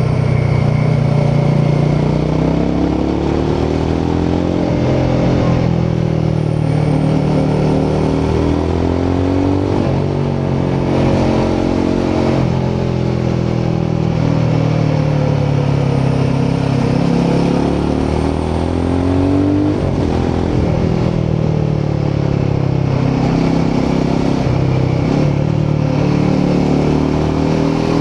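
Royal Enfield Himalayan 450's 452cc single-cylinder Sherpa engine and exhaust under way. The pitch climbs and drops several times as the rider works the throttle.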